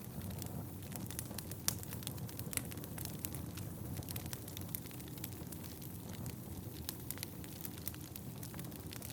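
Wood fire burning in a fireplace: a steady low rumble of flames with irregular sharp crackles and pops from the burning logs, a few louder pops about two seconds in.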